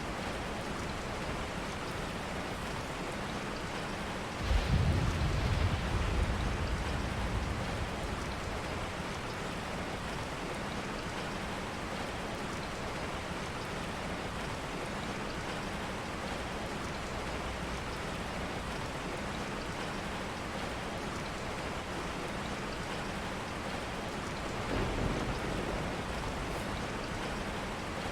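Steady rain hissing throughout, with a low rumble of thunder about four seconds in that lasts a few seconds, and a fainter rumble near the end.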